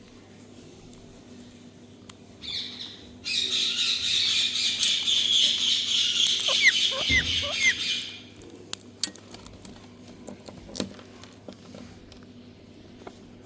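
Indian ringneck parakeet giving a harsh, raspy screech: a short burst, then a loud, long rough call of about four and a half seconds with a few brief falling notes near its end. Scattered sharp clicks follow.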